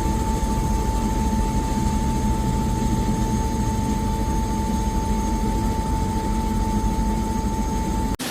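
Helicopter running steadily: a low rotor and engine rumble under a strong, steady high-pitched whine. It cuts off abruptly near the end.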